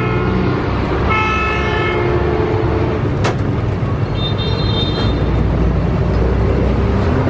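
Road traffic: engines running steadily, with a vehicle horn sounding briefly about a second in and a higher horn about four seconds in, and a single sharp click a little past the middle.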